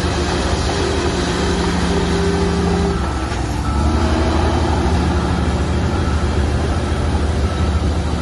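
Bulldozer's diesel engine running under load, its pitch shifting about three seconds in as the engine speed changes.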